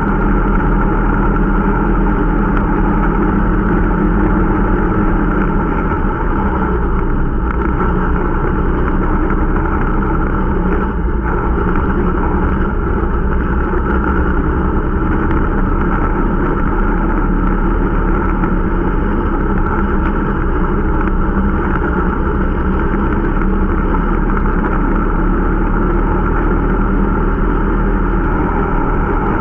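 Irbis Dingo T125 snowmobile's 125 cc four-stroke single-cylinder engine running at a steady pace, a new engine being run in.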